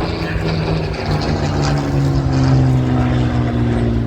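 Piston-engined propeller aircraft flying past, its engine note falling slowly in pitch as it goes by.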